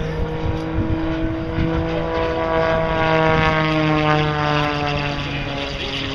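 Propeller airplane flying past, its engine drone growing louder, then dropping in pitch as it goes by.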